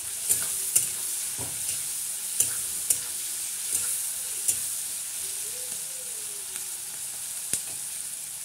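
Chopped vegetables sizzling in hot oil in a kadai, stirred with a metal spatula that scrapes and clicks against the pan. The clicks come every half second or so for the first few seconds, then only once more near the end.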